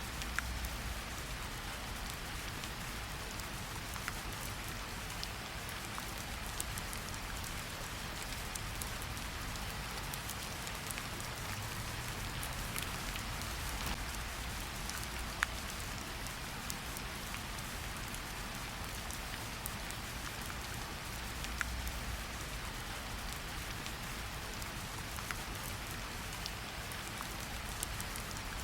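Steady rain falling, an even hiss with scattered sharp ticks of individual drops and a low rumble underneath.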